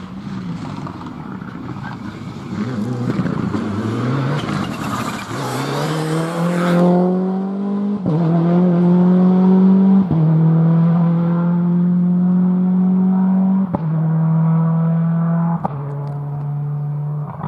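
Four-wheel-drive rally car accelerating hard on a stage, its engine note climbing in each gear and dropping at four quick upshifts, each gear held longer than the one before.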